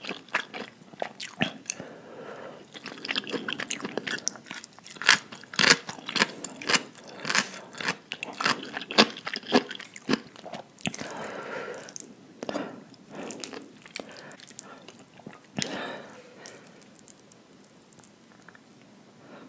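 Close-miked chewing of a mouthful of saucy spicy instant noodles, with wet mouth clicks and smacks that come thick and fast in the first half and thin out toward the end.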